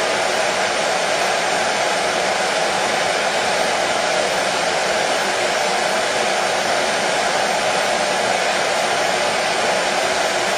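Hair dryer running steadily: an even, unchanging rushing noise with its strongest part in the middle of the range.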